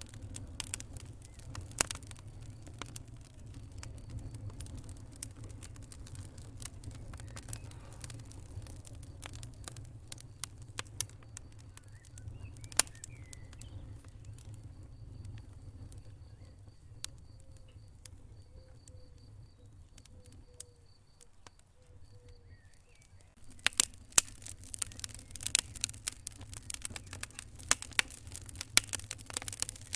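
Wood fire burning in a fireplace: scattered crackles and pops over a steady low rumble of the flames. The crackling thins out and quietens in the middle, then turns dense and louder about three-quarters of the way through.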